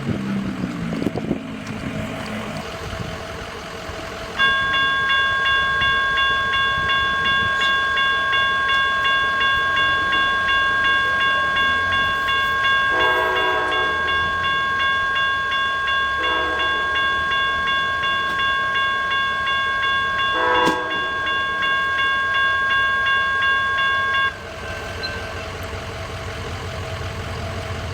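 Electronic railroad crossing bell dinging in a steady pulsing tone that starts about four seconds in and cuts off sharply near the end, as the crossing signals warn of an approaching Amtrak train. Over it, the train's horn sounds three short blasts in the distance.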